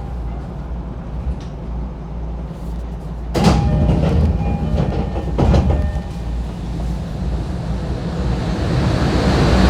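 Inside an E231 series 1000 commuter train car: a steady low rumble, with two loud sharp clanks about three and a half and five and a half seconds in. A hiss builds up near the end.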